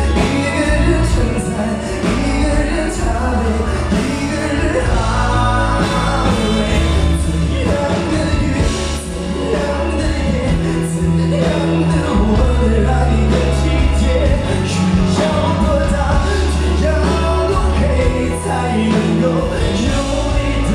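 Pop song playing: a singer's voice over band accompaniment with a strong bass line.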